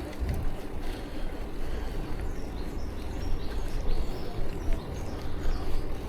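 Wind buffeting a bike-mounted action camera's microphone, with a steady low rumble from a bicycle riding along a path.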